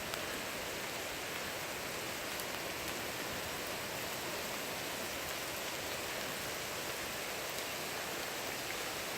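Steady rain falling on surfaces, an even hiss with faint scattered drop ticks.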